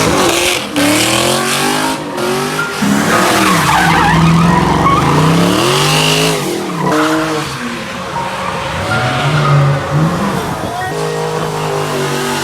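Car engines revving hard, their pitch rising and falling again and again, with tires squealing as cars drift and spin donuts.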